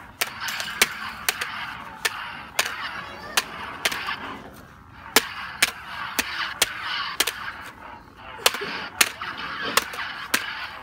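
Toy plastic lightsabers clashing: about twenty sharp, irregular clacks of blade on blade. Between the clacks the toy's buzzing electronic sound effect swells and fades.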